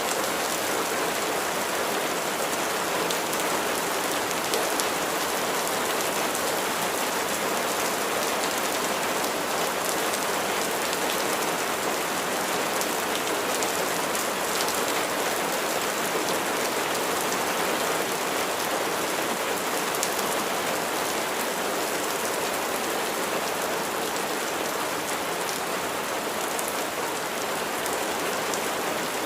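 Steady rain falling, a constant hiss with fine ticks of individual drops.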